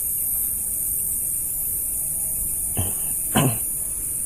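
Steady high-pitched drone of an insect chorus, crickets or cicadas, over a low rumble. Two brief rustles come near the end.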